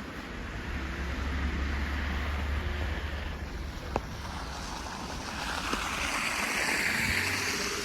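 Storm wind blowing, with a low rumble of wind buffeting the microphone at first and a rush of air that swells and fades near the end. A single sharp click about four seconds in.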